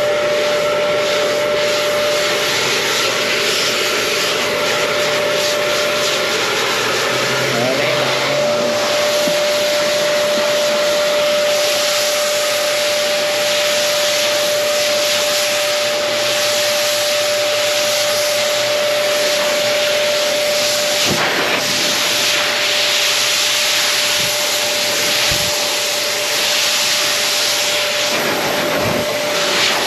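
Pet hair dryer blowing steadily: a rushing stream of air with a constant motor whine, and a few brief bumps in the second half.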